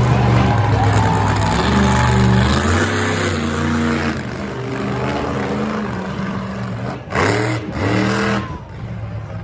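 Monster truck engine running hard, its pitch rising and falling as the throttle works, with two sharp revs near the end.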